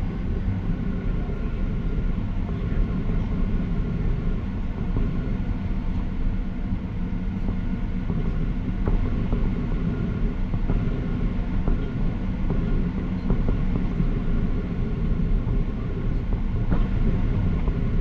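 Steady low rumble of a Boeing 737-800 heard from inside the cabin, its CFM56 jet engines droning with a few faint steady tones above the rumble.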